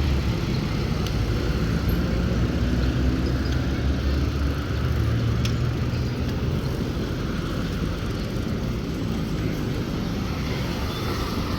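Steady low rumble of wind buffeting the microphone during a bicycle ride along a city street, with motor traffic mixed in. Easing a little in the second half.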